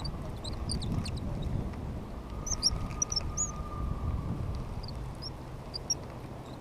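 Small birds chirping: many short, high chirps scattered throughout, over a low rumbling noise.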